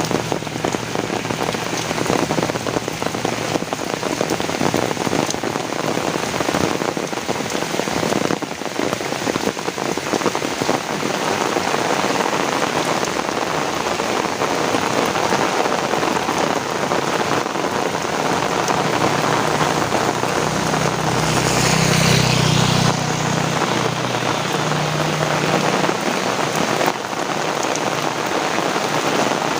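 Heavy rain pouring down steadily. About two-thirds of the way through, a low rumble swells briefly under the rain.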